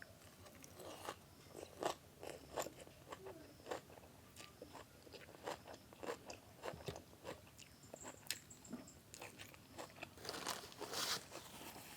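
Close-up bites and chewing of crunchy food: irregular crisp crunches, several a second, with the loudest burst of crunching near the end.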